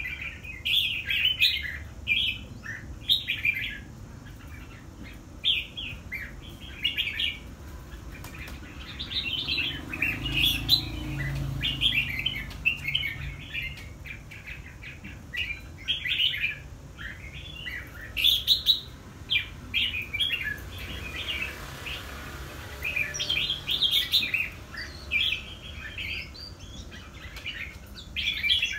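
Red-whiskered bulbul singing: short chirped phrases repeated about once a second, with brief pauses and a few sharp clicks between them.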